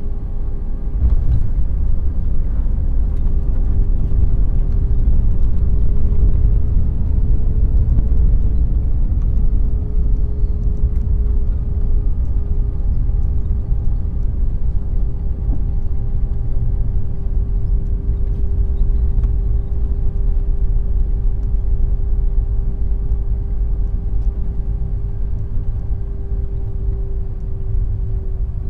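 Jet airliner cabin noise during the landing at Dulles: the engines keep up a steady whine over a heavy rumble from the airframe and wheels. The rumble rises about a second in.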